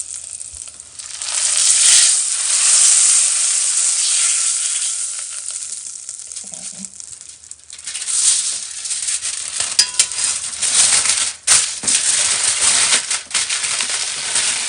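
Aluminium foil being pulled and crinkled around seared beef, a swelling, uneven crackle with sharp snaps, over the hot pan still sizzling.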